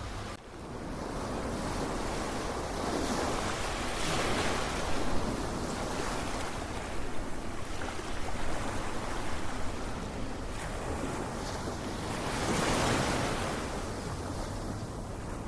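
Ocean surf: waves washing onto the shore in a steady rush, swelling louder about four seconds in and again about twelve to thirteen seconds in. The level drops briefly about half a second in.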